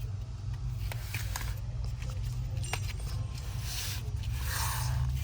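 Steady low hum of store background noise, with scattered small clicks and a brief rustle near the end.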